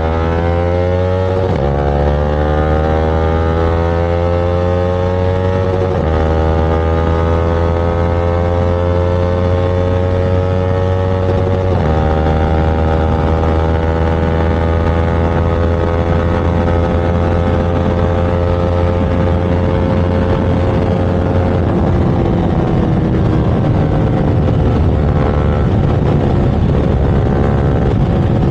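Motorcycle engine accelerating hard through the gears. Its pitch climbs steadily in each gear and drops at upshifts about 2, 6 and 12 seconds in.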